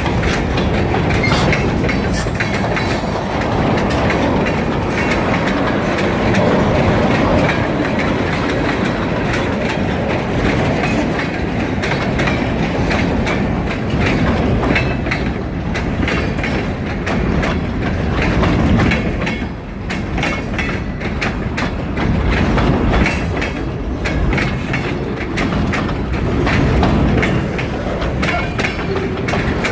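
Freight train rolling past, its wheels clattering in a steady clickety-clack over the rail joints.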